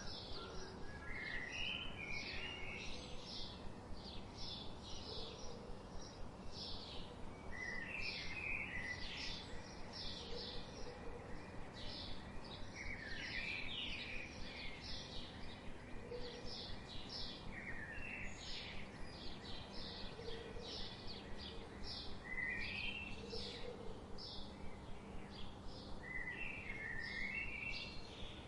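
Birds chirping: a steady run of short, high chirps a few times a second, with a lower warbled phrase breaking in every few seconds, over a faint steady hiss.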